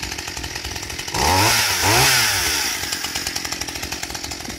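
Chainsaw idling with a steady rapid beat, revved up twice in quick succession about a second in, its pitch rising and falling each time, then dropping back to idle.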